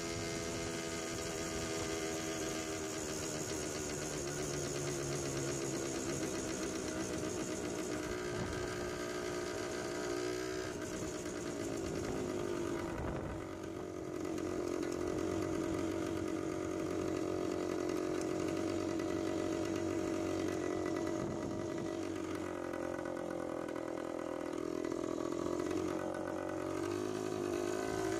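A 1972 Hodaka Wombat's 125 cc two-stroke single-cylinder engine running while the bike is ridden. The revs drop sharply about thirteen seconds in, hold steady, then swing down and back up near the end.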